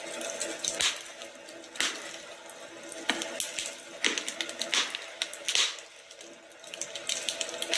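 Wood fire crackling in a fireplace, with irregular sharp pops every second or so over a steady hiss.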